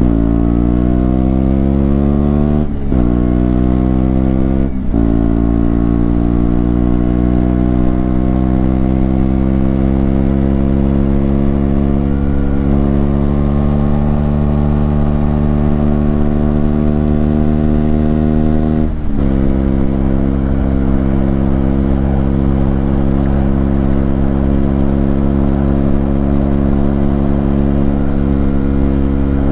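KTM Duke 125's single-cylinder four-stroke engine accelerating under load, shifting up sharply about 3 and 5 seconds in, then pulling slowly higher in one gear before another upshift near 19 seconds, after which it holds a steady speed.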